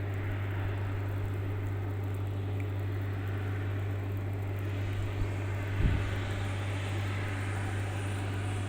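Airliner engines and airflow during a landing approach: a steady low drone with a rushing hiss that builds from about five seconds in, and a couple of short low bumps around six seconds.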